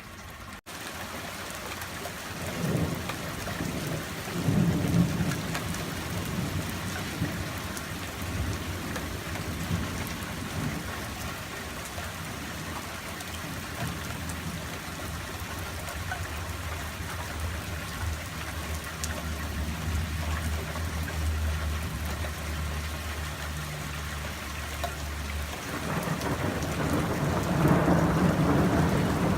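Steady rain falling, with rolling thunder: low rumbles a few seconds in, a long low rumble through most of the middle, then another rumble building near the end, the loudest of them.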